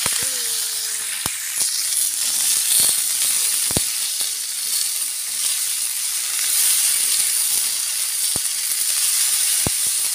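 Cut long beans sizzling as they are stir-fried in a wok, a steady hiss. A spatula is pushing them around, knocking against the wok a few times.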